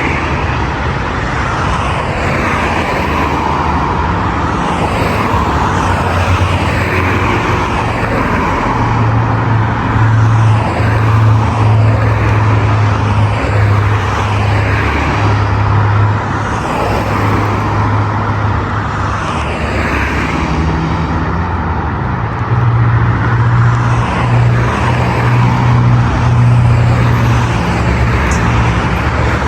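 Steady road traffic on a busy multi-lane boulevard: cars passing continuously with tyre noise. A deeper engine hum swells twice, once around the middle and once near the end, as heavier vehicles pass.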